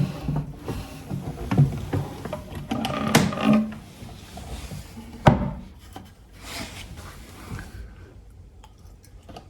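Objects being handled and moved about in a small room: rustling and clattering, with a sharp knock a little past the middle, then quieter rustles.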